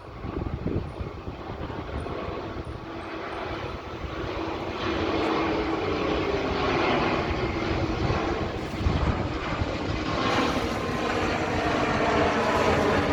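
Airbus A320 airliner's jet engines growing louder as the plane comes in. A rushing noise with a steady low hum builds up about five seconds in and stays strong.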